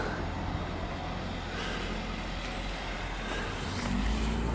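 A motor vehicle's engine running steadily with a low rumble, growing a little louder near the end.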